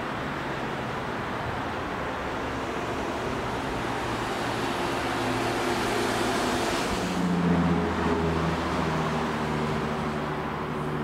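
Train noise at a railway station: a rushing sound builds to a peak about seven seconds in and then falls away, leaving a steady low hum with a few held tones.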